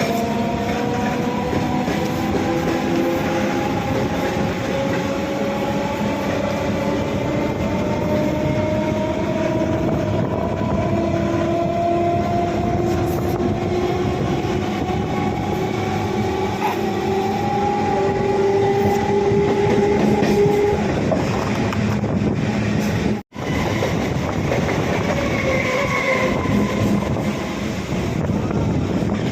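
EMU electric local train running on the track, its rumble steady while the traction motors' whine climbs slowly in pitch over about twenty seconds as the train gathers speed, then fades. The sound cuts out for an instant a little after twenty seconds in.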